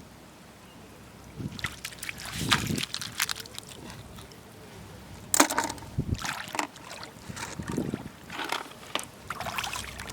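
Digging clams from wet beach sand by hand: irregular scraping and clicking of shells, with a sharp knock about five and a half seconds in and some water sloshing.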